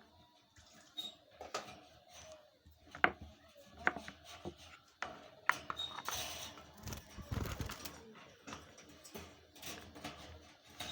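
Food dishes being handled and set in place for pet budgerigars: a string of separate clicks and knocks, with a longer rustling scrape past the middle.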